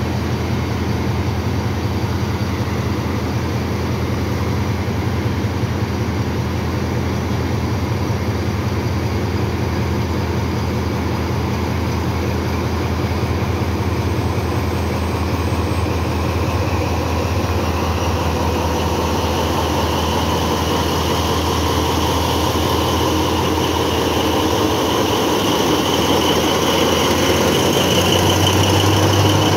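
TCDD DE 24000-class diesel-electric locomotive running with a steady low diesel hum. From a little past halfway, a whine rises slowly in pitch and the sound grows slightly louder as the locomotive powers up to pull away.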